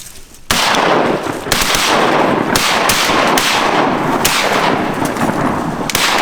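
Several hunters' shotguns firing a volley at landing mallards. The first shot comes about half a second in, and more shots follow at uneven intervals, overlapping, with a constant loud rush between the reports.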